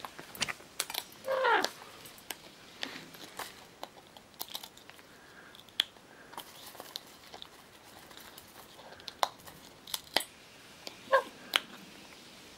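Scarlet macaw's beak clicking and tapping on a wooden table, with scattered sharp clicks throughout. A loud, short squawk that falls in pitch comes about a second in, and a shorter one near the end.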